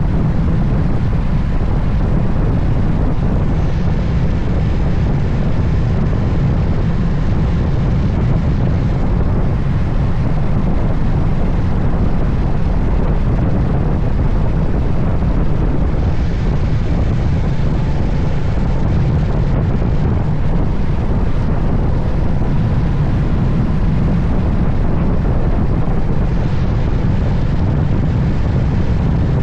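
Steady, heavy wind rush buffeting the microphone of a motorcycle riding at speed, with the low rumble of the Moto Guzzi Stelvio underneath it.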